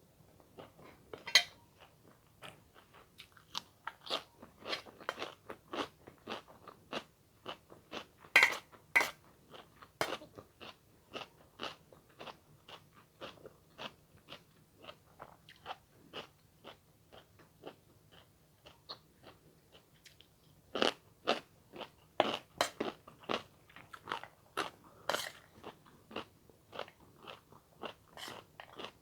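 A person eating up close to the microphone: wet chewing with irregular crunches and smacks. The loudest bites come about a second in, around eight to ten seconds in, and in a cluster after about twenty seconds.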